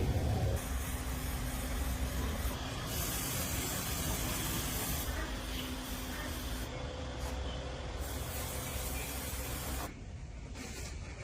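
Steady hissing spray with a low hum beneath it, cutting off abruptly about ten seconds in.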